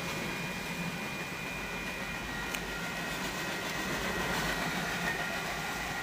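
Train cars rolling past a grade crossing, a steady rumble of wheels on rail with faint thin high tones over it and one sharp click about two and a half seconds in.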